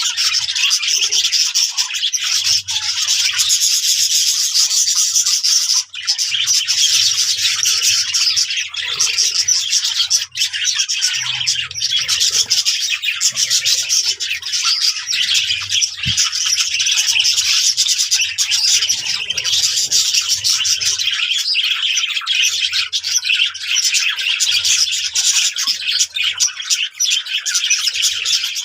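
A flock of budgerigars chattering and warbling together, many birds calling at once in a continuous, dense stream of high chirps.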